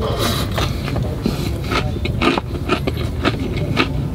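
Close-up chewing and crunching of a crispy fried chicken burger: many short, sharp crunches in an irregular run over a steady low rumble.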